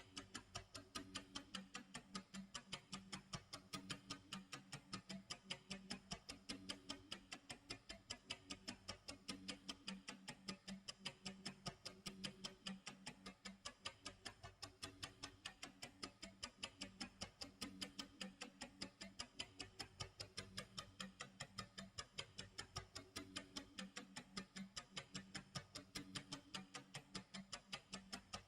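Clock tick-tock sound effect: faint, even ticks at a steady pace, over soft low background music.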